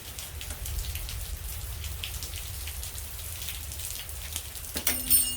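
Rain falling outside, a dense patter of drops over a steady low rumble. Near the end a brief pitched squeak is the loudest moment.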